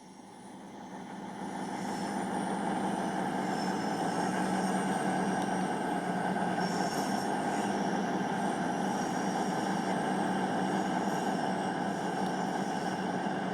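Two coupled CrossCountry Class 220 Voyager diesel-electric trains running into the station. They grow louder over the first two seconds, then hold a steady engine and rail noise with a faint high-pitched squeal.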